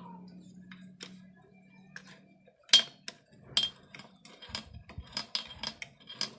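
Metal tools and engine parts clinking and tapping as they are handled: a sharp clink about two and a half seconds in, another a second later, then a quick run of lighter metallic ticks.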